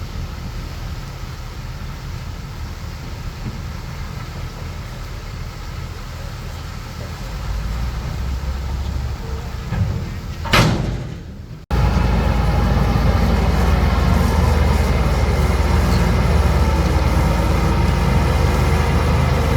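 Heavy earthmoving machinery's diesel engine running with a low rumble. A short sharp noise comes about ten seconds in, and just after it the sound switches abruptly to a louder, steadier engine drone.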